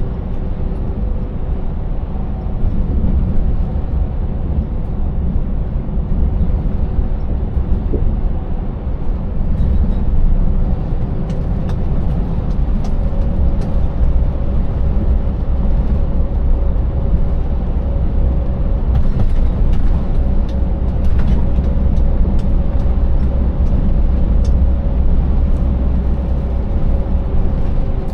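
Scania 590S truck's 16-litre V8 engine running under way with steady low rumble of engine and tyres on a rough road, a faint steady whine underneath and scattered light ticks or rattles from about ten seconds in.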